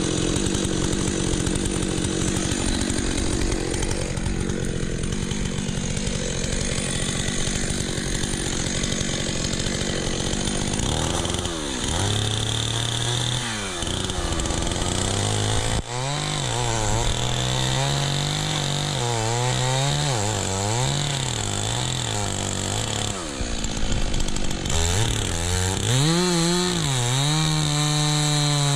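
Two-stroke chainsaw running at high revs for about the first ten seconds, then dropping lower and revving up and down again and again, before holding steady at high revs near the end.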